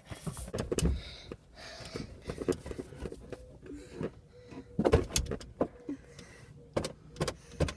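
Scattered clicks and knocks of hands handling things, the loudest about five seconds in, with a faint steady hum for a couple of seconds after it.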